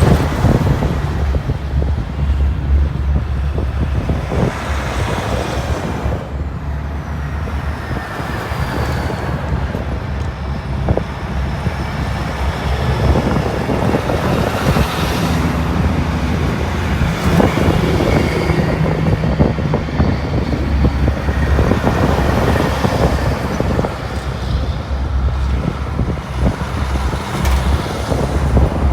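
Heavy diesel truck engines running with a deep, steady rumble as big rigs roll by, the sound swelling and easing as they pass.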